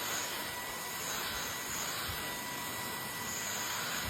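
Cordless stick vacuum cleaner running steadily on its high power setting: an even rushing noise with a faint steady high tone from the motor.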